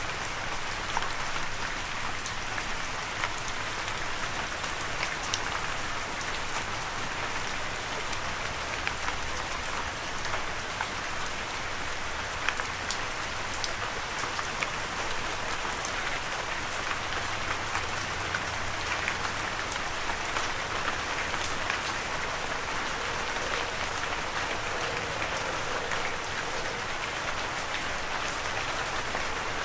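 Steady rain falling on a surface, an even patter dotted with individual drop ticks.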